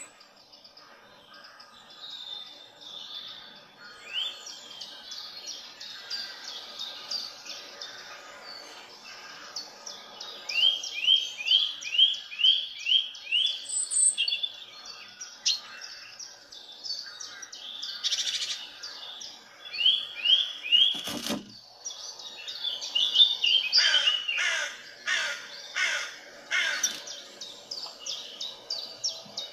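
Small birds chirping in runs of short, quick notes, some in even series of about two notes a second. A single sharp knock about two-thirds of the way through.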